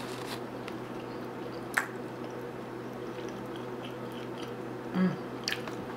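A person chewing food with the mouth closed: soft, wet mouth sounds with a couple of small clicks, and a short hum from the throat about five seconds in.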